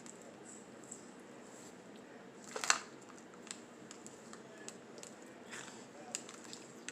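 A crisp bite into a small marshmallow-and-cracker snack about two and a half seconds in, followed by a few faint chewing clicks.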